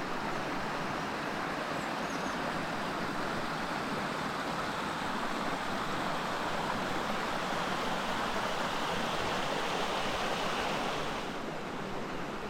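Steady rushing of running water, easing slightly near the end.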